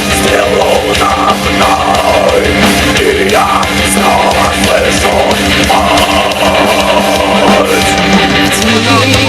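Folk metal band playing an instrumental passage without vocals: distorted electric guitars over a drum kit, with a wavering melody line on top.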